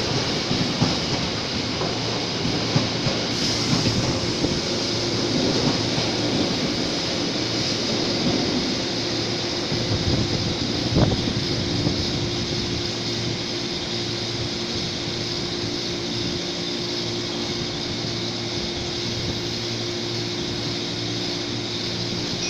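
A train running on the station tracks, with one sharp knock about eleven seconds in and a steady hum through the second half.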